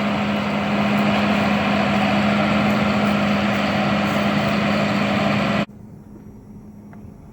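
Combine harvester's diesel engine running steadily with a strong hum. About six seconds in the sound cuts off abruptly to a much quieter engine sound.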